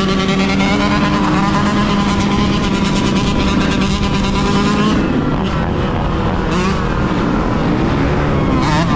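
Yamaha YZ125 two-stroke dirt bike engine running under way, held at fairly steady revs for about five seconds, then revved up and down in quick blips.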